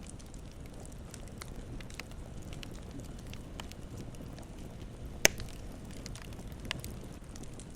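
Campfire burning: a low steady rush with scattered small crackles, and one sharp loud pop a little after five seconds in, followed by a smaller pop.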